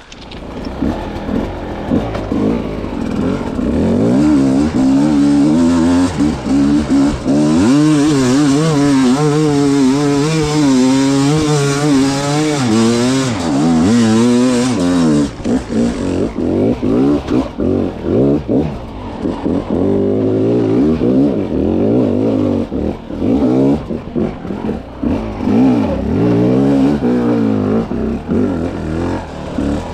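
A 300cc two-stroke dirt bike engine under hard throttle, its pitch wobbling up and down from about 4 to 15 seconds. After that it turns into short, choppy throttle blips and revs that rise and drop off repeatedly.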